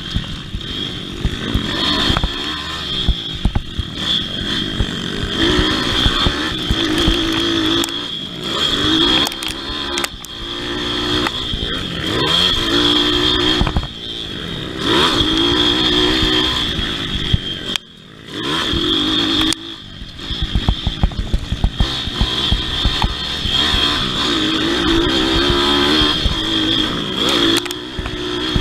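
Pit bike engine revving hard and easing off again and again under racing throttle, with rattling clatter throughout. About two-thirds of the way through it drops off sharply for a second or two before picking up again.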